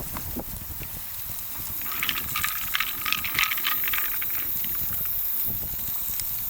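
Liquid bubbling and crackling, with a busy patch of fine pops starting about two seconds in and lasting about three seconds, over a low steady rumble.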